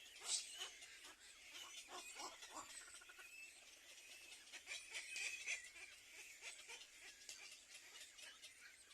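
Faint, high-pitched chirping of birds, with a cluster of short clicks and rustles in the first three seconds.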